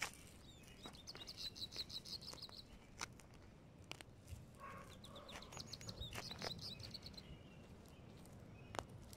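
A songbird singing two fast trilled phrases of rapidly repeated high notes, the first about a second in and the second around the middle, with scattered soft clicks between them.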